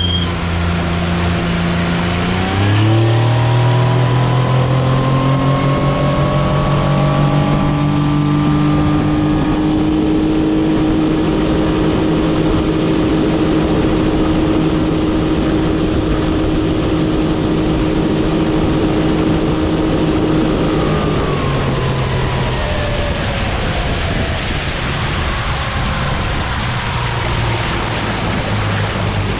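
Mercury 30 hp four-stroke outboard motor opening up about two seconds in, its pitch climbing, then running at a steady high speed under way with a rush of wind and water. A little past twenty seconds it is throttled back and the pitch falls to a lower steady run.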